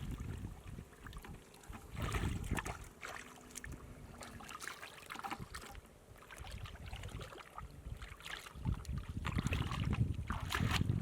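Irregular splashing and sloshing of shallow water, coming in uneven surges a second or two long.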